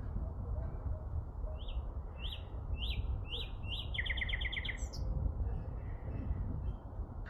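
A songbird singing: about six short chirps at roughly two a second, then a fast trill about four seconds in. It is heard over a steady low rumble.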